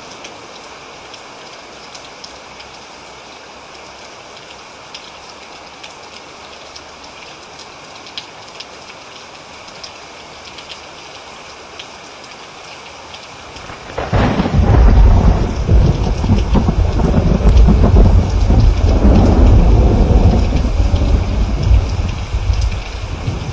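Steady rain falling with scattered drop ticks, then about two-thirds of the way in a loud thunderclap breaks into a deep rolling rumble that lasts several seconds and fades near the end.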